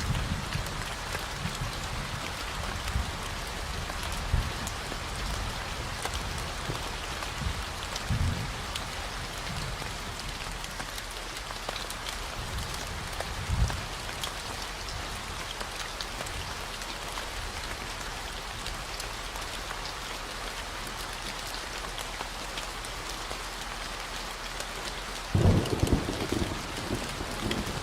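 Steady rain falling, with a constant low 40 Hz hum beneath it. Short low thunder rumbles come about 8 and 13 seconds in, and a longer, louder rumble begins near the end.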